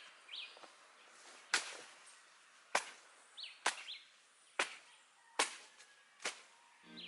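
Six chopping strikes, about one a second, cutting into a banana plant's trunk to bring down a rack of bananas, with brief bird chirps between them.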